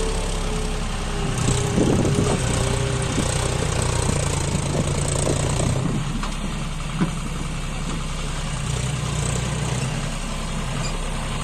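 John Deere 5105 tractor's three-cylinder diesel engine running steadily, with a faint whine over it in the first few seconds and a sharp knock about seven seconds in.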